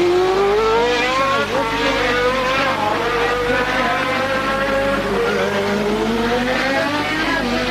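Engines of 1988 Formula One cars at racing speed, several overlapping engine notes rising in pitch as the cars accelerate.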